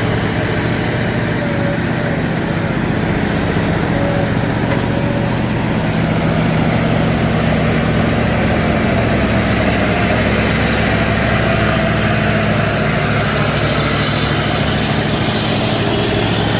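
A truck's diesel engine running steadily, with a thin high whine held above it that wavers briefly about two seconds in.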